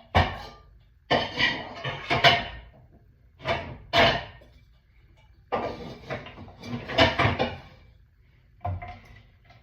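Dishes clinking and clattering as they are set onto cupboard shelves and stacked, in several separate bursts, with knocks from the cupboard.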